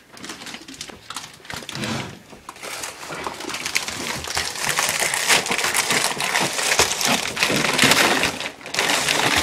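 Flexible dryer vent duct being crumpled and pulled about: irregular crinkling and scraping that builds over the first few seconds and stays busy until a short pause near the end. The vent line is clogged.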